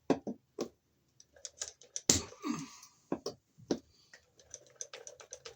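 An irregular series of sharp clicks and taps from hand tools and wire being worked at cable staples, with the two loudest knocks at the start and about two seconds in and a quicker run of lighter clicks in the second half.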